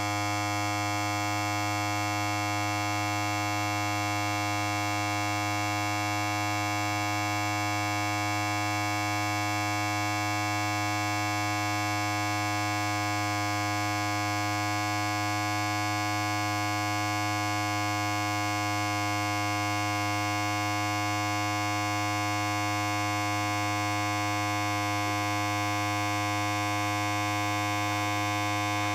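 Electric hair clipper running steadily: an even, unchanging low buzz.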